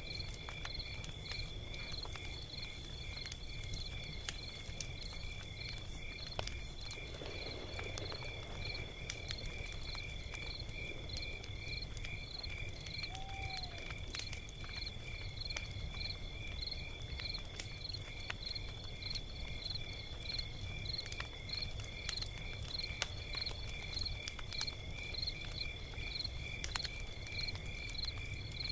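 Crickets chirping in a steady rhythm, about two pulses a second over a continuous high trill, with the low rumble and scattered sharp crackles of a log fire beneath.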